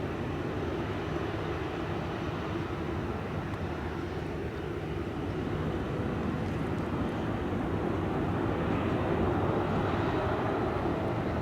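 Jet engines of a Boeing 787-8 Dreamliner on its takeoff run: a steady rumble that grows somewhat louder about halfway through.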